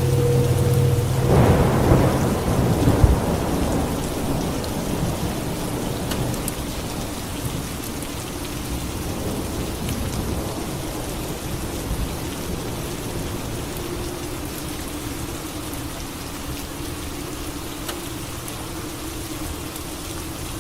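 Steady heavy rain with a thunderclap about a second and a half in, whose rumble fades away over the next few seconds.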